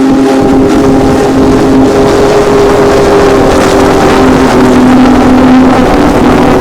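Locomotive sounding a long chord of several steady tones, over loud rumbling noise from the train.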